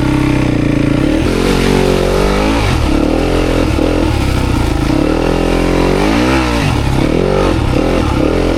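Dirt bike engine running: steady for about the first second, then revving up and down several times, with a sharp drop and pick-up of revs about six seconds in.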